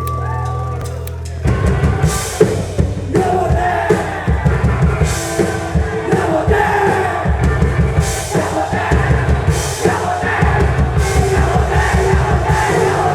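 Punk band playing loud and fast: a held chord rings for about a second and a half, then the drums and full band crash in, with a voice singing or shouting over them and a crowd.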